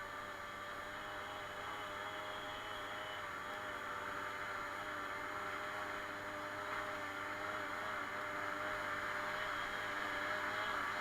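Suzuki Colleda moped's small two-stroke engine running at a steady speed under way, its pitch nearly constant, over a steady hiss.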